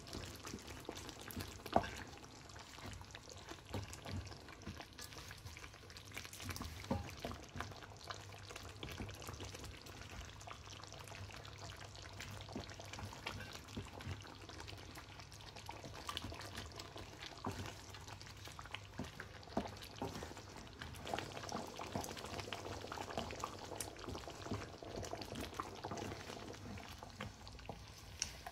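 Tomato-and-chicken karahi curry sizzling and bubbling in oil in a deep pan over high heat, with many small spattering pops.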